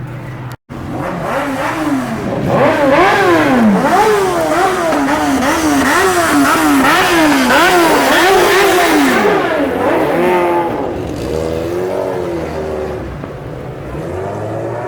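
Car engine revved hard over and over, the pitch climbing and dropping about twice a second for several seconds, then a few slower revs that settle back toward idle.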